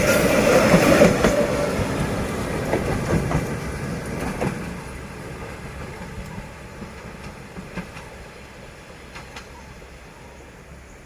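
Passenger train hauled by a D19E diesel-electric locomotive passing by and moving away: loud rolling noise with a steady hum at first, fading steadily, with a few faint clicks of wheels over rail joints as it recedes.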